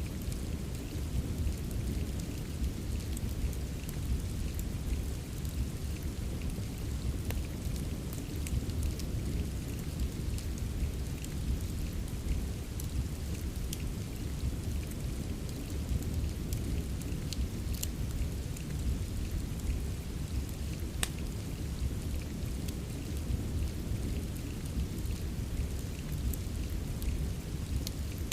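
Steady rain ambience with a deep, even low rumble, mixed with a wood fire whose sharp pops and crackles come every few seconds.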